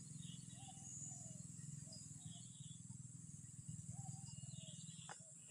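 Faint outdoor rural ambience: a steady high insect drone, a low rumbling hum and short scattered bird calls, with a single click near the end.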